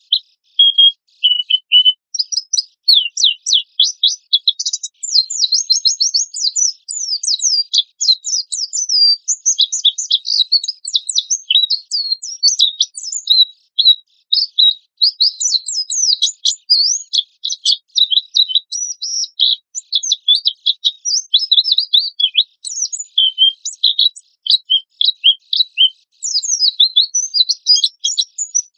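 White-eye (pleci) singing a long, fast, high-pitched chattering song of sharp, rapid notes, with only brief pauses.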